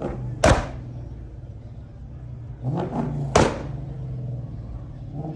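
Two sharp knocks or slams about three seconds apart, over a steady low hum.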